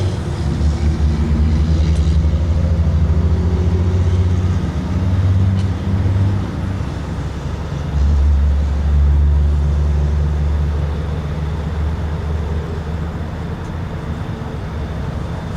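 Low, steady engine rumble of motor vehicles running close by, swelling around five seconds in and again from about eight seconds in, with a couple of faint clicks.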